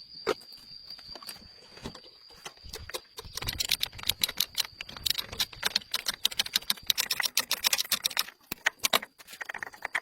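Rapid, irregular clicking and tapping, sparse at first and dense through the middle and later part. A thin, steady high-pitched tone runs underneath.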